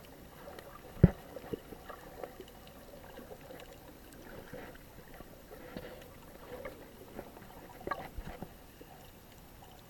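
Muffled water sounds around a snorkeler's camera: a faint wash of water with scattered small clicks and knocks, one sharp knock about a second in.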